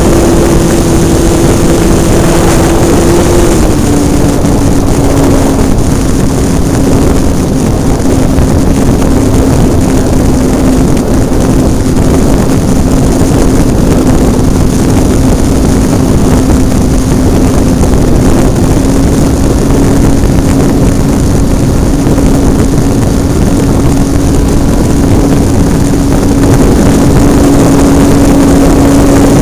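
Radio-controlled model airplane's engine and propeller heard from on board in flight, over a constant heavy rush of air noise. The engine's pitch drops a step, as when throttled back, about three to four seconds in, then runs steadily at the lower setting.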